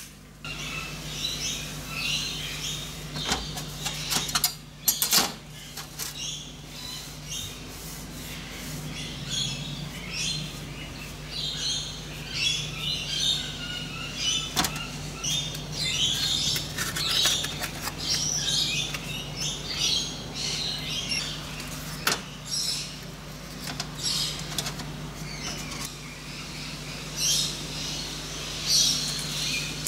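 Small birds chirping and twittering on and off, over a steady low hum, with a few sharp clicks, the loudest about four to five seconds in.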